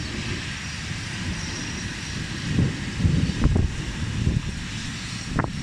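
Steady rushing rumble of passing traffic and storm wind, with a few low thumps in the middle and a sharp knock near the end.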